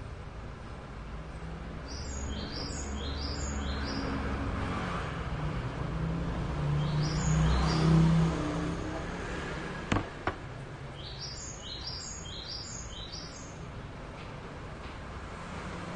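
A small bird chirping in three runs of quick, high, falling notes over a low steady hum. There are two sharp knocks about ten seconds in.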